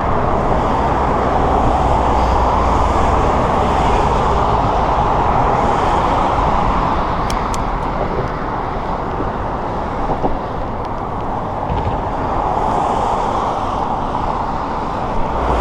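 Steady rushing noise of a bicycle being ridden: wind buffeting the camera's microphone and road noise, with a deep rumble that comes and goes in gusts and a few faint clicks about halfway through.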